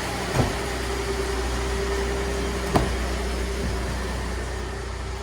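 Ford F-150 pickup heard from inside the cab while driving: a steady low engine and road rumble with a steady hum. Two short knocks come about two and a half seconds apart.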